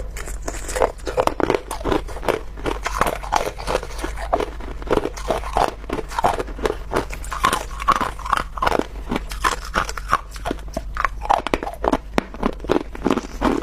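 A person biting and chewing chunks of clear ice: a dense run of crunches and cracks, several a second, with no pause.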